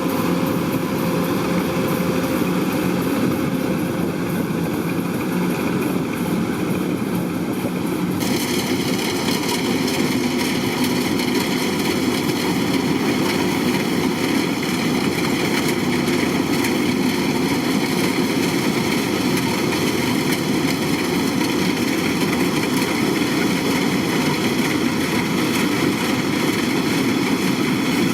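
Kubota DC-105X combine harvester running steadily as it harvests rice, its diesel engine and threshing machinery making a constant mechanical din. About eight seconds in the sound turns abruptly brighter, with higher whining tones joining in.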